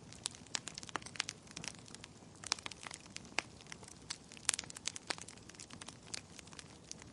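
Wood fire burning in a fireplace, crackling and popping with many sharp irregular snaps over a low steady hiss.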